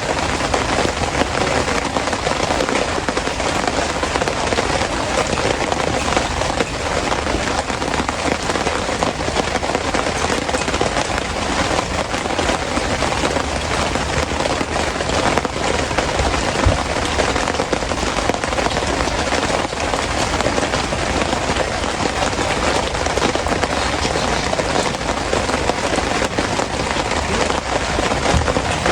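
Steady heavy rain falling onto a surface, a dense even hiss of countless close drop impacts with no letup.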